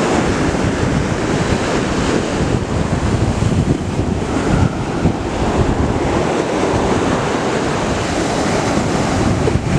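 Surf washing onto the beach under heavy wind buffeting the microphone, a steady rushing noise with gusty low rumble.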